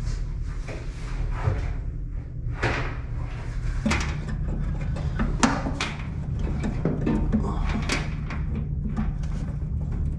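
Sheet-metal dryer parts being handled and fitted back into the cabinet during reassembly: a string of sharp metal knocks, clunks and scrapes, over a steady low hum.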